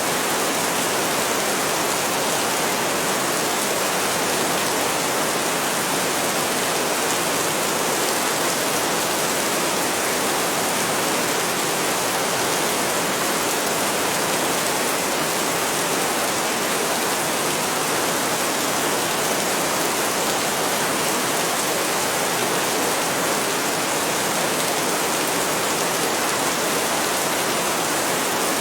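Heavy rain falling in a steady, even downpour with no thunder.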